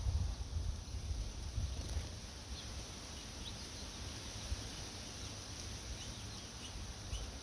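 Wind buffeting the microphone as a low rumble that eases after the first couple of seconds, with several faint, short bird chirps scattered through the rest.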